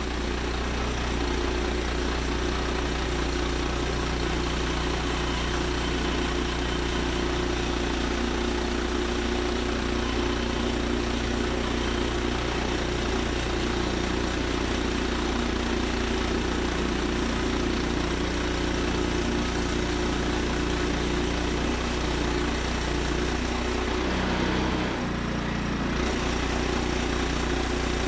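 Woodland Mills HM122 portable band sawmill's gas engine running steadily, with a brief dip in level about twenty-five seconds in.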